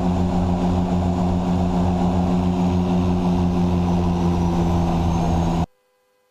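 De Havilland Canada DHC-6 Twin Otter's twin Pratt & Whitney PT6A turboprop engines and propellers droning steadily in the cockpit, the propellers set to max RPM for landing. The drone cuts off suddenly near the end.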